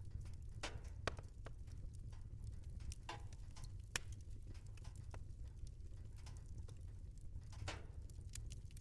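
Wood fire burning in a fireplace: a steady low rumble with scattered sharp crackles and pops, the loudest about a second in and again about four seconds in.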